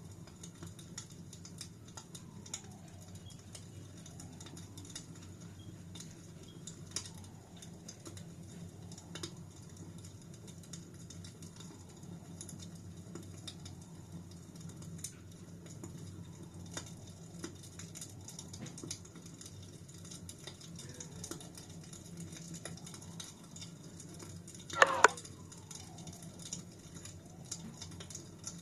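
Wood fire crackling steadily over a low hum, with many small ticks and pops and one louder, sharp pop near the end.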